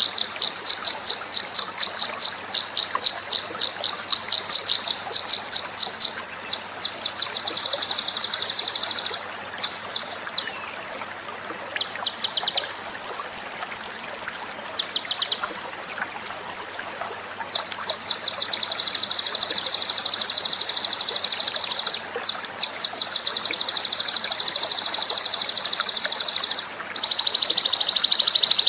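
Songbird 'masteran' recordings: a string of very high, rapid trills and buzzy chirps. Each phrase runs a second to several seconds before a short break and a change to a different trill, and the longest run comes in the second half.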